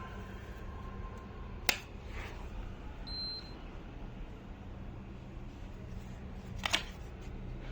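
Steady low hum of an air conditioner running, with two sharp clicks and, between them, a short high electronic beep.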